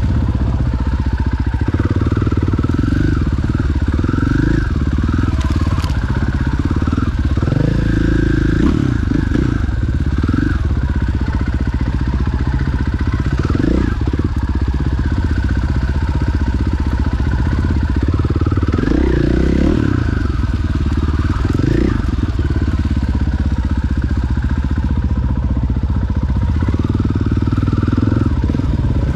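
Enduro dirt bike engine running as it is ridden through woodland, its note rising and falling with the throttle every second or two.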